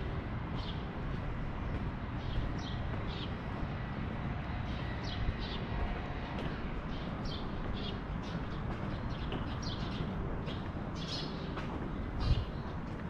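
Small birds chirping in many short, high calls over a steady low rumble of street noise, with a single low thump near the end.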